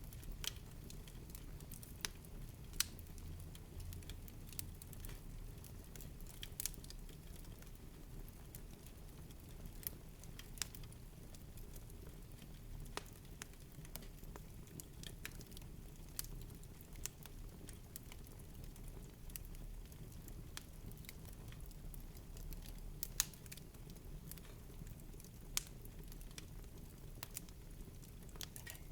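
Wood fire in a fireplace crackling, with irregular sharp pops and snaps over a low steady rumble of the flames; a few louder pops stand out.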